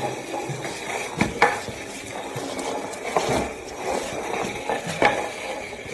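Scraping and clattering handling noise, with a few sharp knocks scattered through it.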